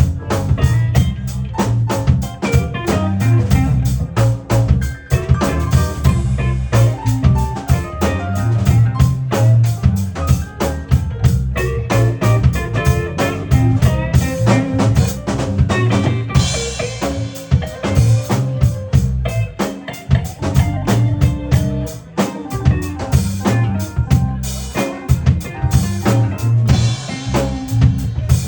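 Instrumental keyboard music with a steady drum beat, snare and rimshot strikes keeping time under the melody.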